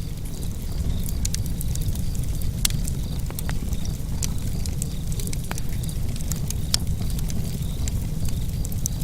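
Fire burning in a fireplace: a steady low rumble with irregular sharp crackles and pops throughout, two of them louder, about a third of the way in and about three-quarters of the way through.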